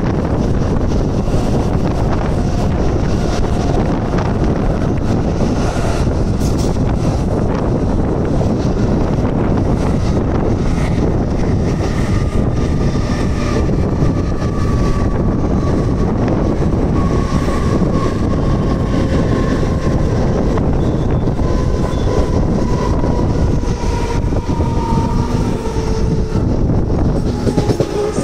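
Mumbai suburban electric local train running at speed, heard from its open doorway: a steady rumble of wheels on rail with occasional clacks, and in the second half a faint whine that slowly falls in pitch.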